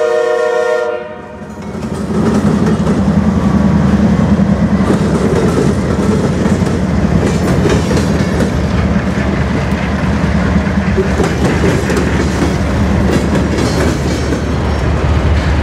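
A Norfolk Southern diesel locomotive's multi-note horn chord cuts off about a second in. Then the freight train's boxcars and covered hoppers roll past with a loud, steady rumble and clatter of steel wheels on rail.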